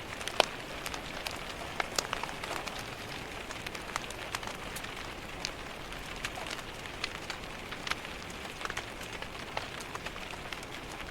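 Steady rain hiss against window glass, layered with irregular sharp pops and crackles from a wood fire in a fireplace.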